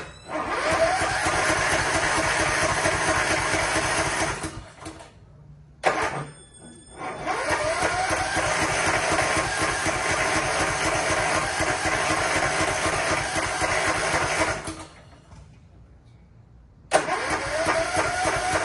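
Riding lawn mower engine being cranked by its electric starter in three separate tries, each starting with a rising whine and cut off after a few seconds. The engine does not keep running between tries.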